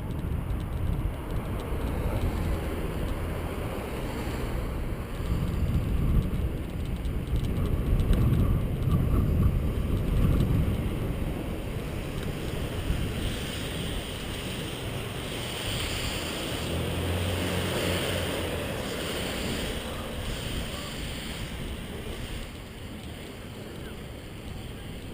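Wind buffeting a GoPro action camera's microphone while cycling: a rumbling rush that swells and eases. A brighter hiss joins it for several seconds past the middle.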